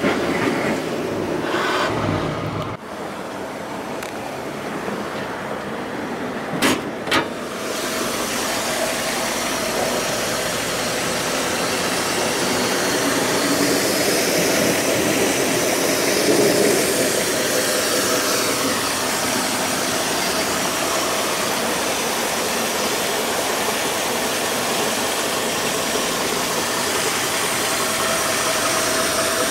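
1959 Oldsmobile 98's Rocket V8 running at a steady idle, with two sharp clicks about seven seconds in.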